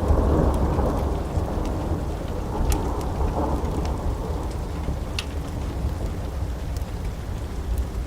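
Low rolling thunder over steady rain, loudest in the first second and swelling again about three seconds in, with a few sharp pops from a crackling wood fire.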